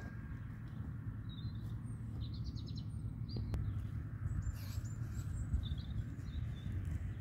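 Small birds chirping intermittently, with a short rapid trill about two and a half seconds in, over a steady low rumble.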